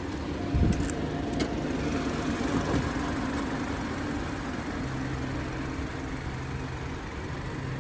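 BMW X3 xDrive30i's 2.0-litre B48 turbo four-cylinder idling steadily. A thump and a few light clicks come in the first second or two as the bonnet is released and raised.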